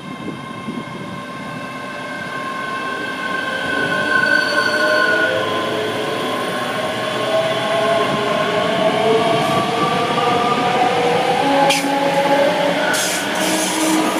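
A train running through the station, growing louder over the first few seconds, with several whining tones that slowly rise in pitch and a few sharp clicks near the end.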